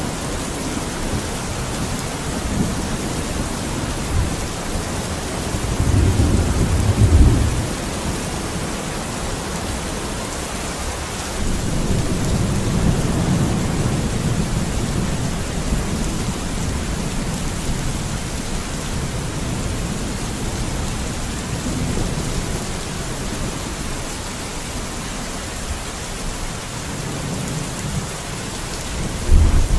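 Steady rain falling, with thunder rumbling low underneath. The loudest roll of thunder comes about six to seven seconds in, a longer one from about twelve seconds, and another starts right at the end.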